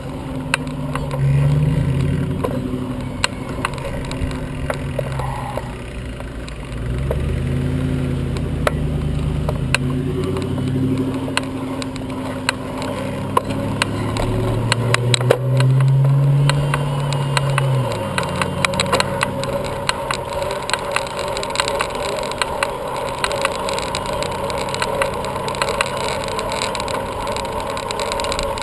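Motor traffic running close by: engine notes rise and fall as vehicles pass during roughly the first two-thirds, then settle into a steadier hum, with many small clicks throughout.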